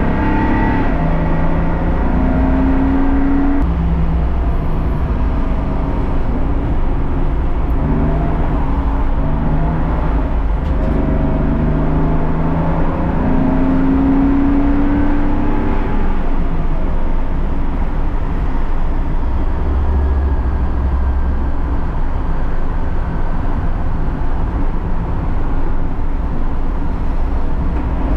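BMW race car engine running hard, its pitch climbing again and again with short breaks between climbs as it accelerates and shifts through the gears.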